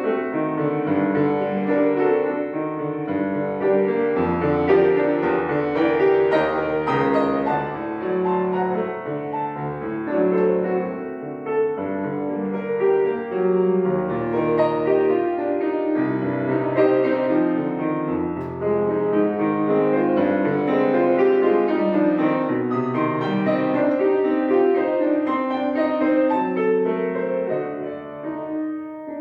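Solo piano playing a prelude in continuous flowing figures over a bass line, with the loudness tailing off at the very end.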